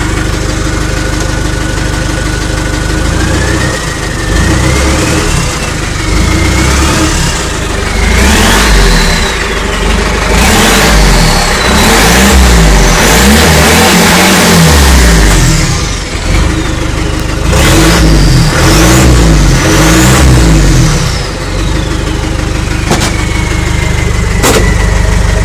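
Land Rover 300Tdi 2.5-litre four-cylinder turbo-diesel, running with only a turbo downpipe and no further exhaust, blipped from idle again and again: each rev brings a turbo whistle that climbs and falls away, and after the last rev the whistle winds down into a steady high whine as the engine settles back to idle. A couple of sharp clicks come near the end.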